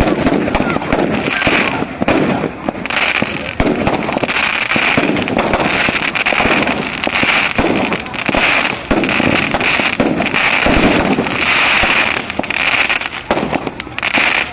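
Fireworks going off in a rapid, continuous barrage: dense, loud bangs and crackles overlapping with no break.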